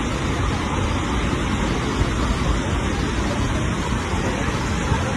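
Steady, even rush of floodwater pouring over Tumpak Sewu waterfall in a flash flood.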